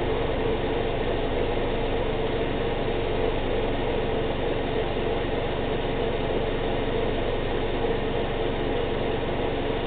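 2012 Subaru Outback's engine idling steadily, run to bring the CVT fluid up to about 35 degrees for the fluid-level check at the plug.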